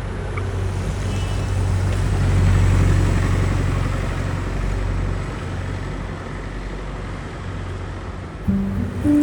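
Street traffic noise with a low rumble that swells and then slowly fades as a vehicle passes. Piano music comes in near the end.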